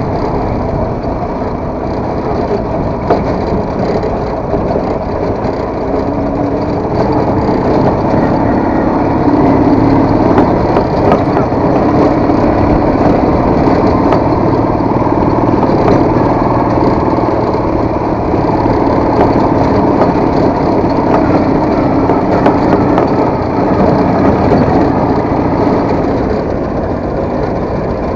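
Motorcycle engine running while riding, with steady road and rattle noise. It gets somewhat louder about eight seconds in and eases off near the end.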